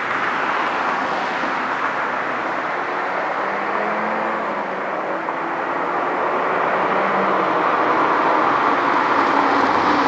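MINI Cooper S Clubman with a John Cooper Works sport exhaust driving, a dense exhaust and road noise with a faint engine note that dips slightly midway and swells louder toward the end.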